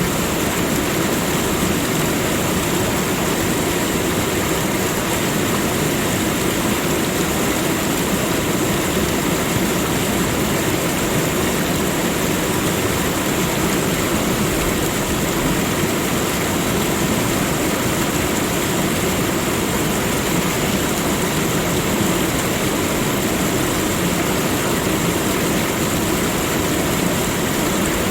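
Steady, unbroken rushing water, a dense even roar with no single splashes or changes.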